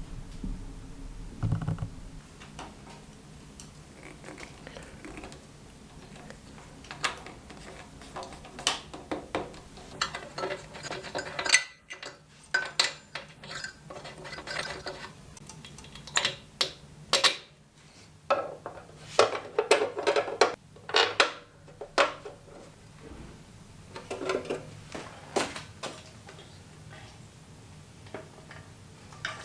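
Irregular metallic clinks and knocks of tools and metal parts being handled, busiest in the middle, over a faint steady low hum.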